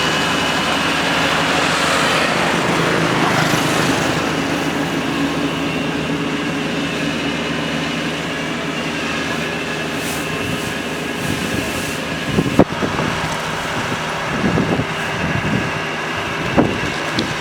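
Kubota combine harvester's diesel engine running steadily as the machine travels, with its crawler tracks clattering. Several sharp thumps come in the last few seconds.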